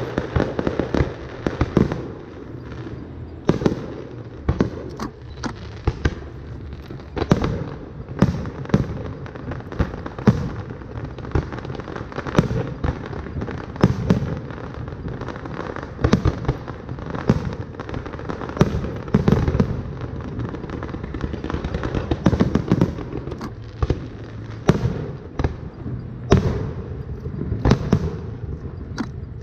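Fireworks display: aerial shells bursting in a dense, irregular string of sharp bangs, several a second at times, over a continuous low rumble of overlapping reports.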